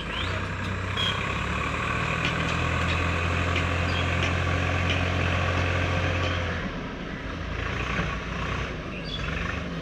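Heavy diesel engine running steadily with a low, even drone that eases off about two-thirds of the way through.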